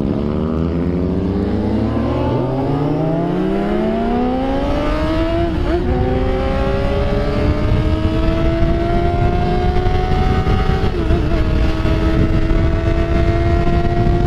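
Motorcycle engine accelerating hard, its pitch climbing, then shifting up twice and pulling on at a steadier note. Wind rumbles on the microphone underneath.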